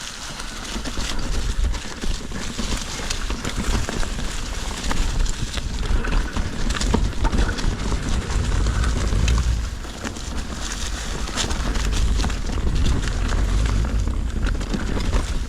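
Mountain bike riding over a rocky trail: irregular clattering and knocking of tyres on rock and the bike's chain and frame rattling, over heavy wind rumble on the action-camera microphone that eases briefly about two-thirds of the way through.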